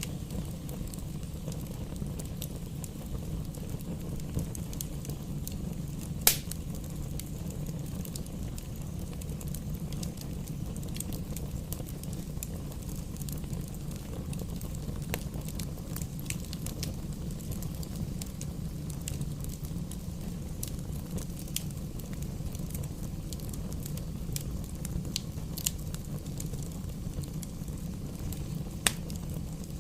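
Bonfire burning: a steady low rumble with scattered crackles and pops. The sharpest pop comes about six seconds in, and another near the end.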